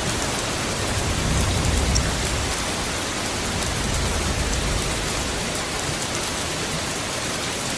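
Steady rain falling as an even hiss, with the last of a low thunder rumble dying away in the first couple of seconds.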